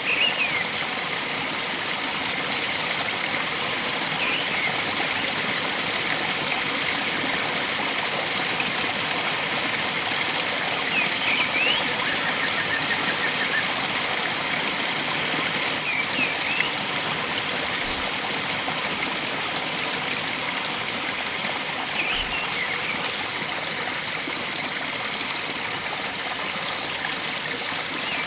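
Flowing stream water rushing steadily, with short high bird chirps every few seconds.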